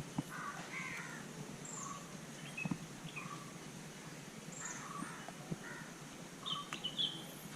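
Birds calling, short scattered calls and chirps, with a few sharp clicks or knocks, about a tenth of a second in, near three seconds in and around seven seconds in.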